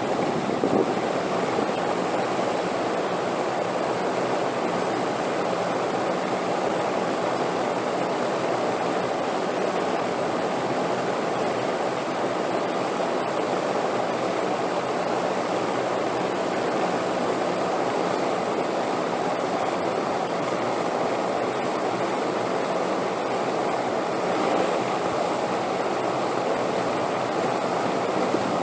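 Steady wind, an even rushing noise that holds at the same level without gusts or breaks.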